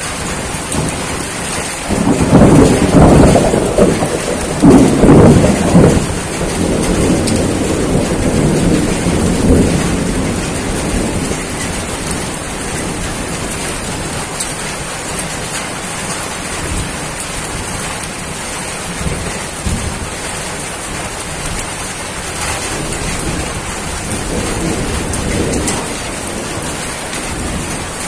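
Steady rain falling, with a loud roll of thunder starting about two seconds in that rumbles for several seconds before fading. A fainter rumble of thunder comes near the end.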